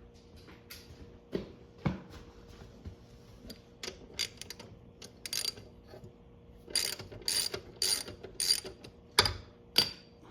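Hand ratchet wrench clicking through a series of strokes while loosening a fastener, after a couple of dull knocks. The strokes come in short runs, the densest and loudest near the end.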